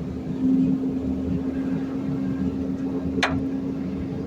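Garbage truck engine running with a steady hum, and one short, sharp sound about three seconds in.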